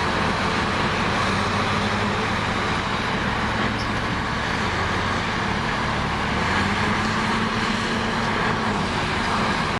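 Heavy diesel engine of an earthmoving machine running steadily, a low, even hum with a broad mechanical rumble over it.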